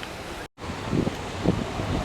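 Wind buffeting the microphone, with two low thumps, over a steady low rumble.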